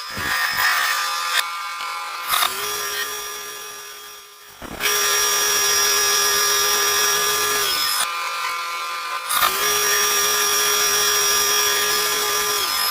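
Lathe running with a steady hum and cutting noise in three stretches, each a few seconds long and broken by short pauses.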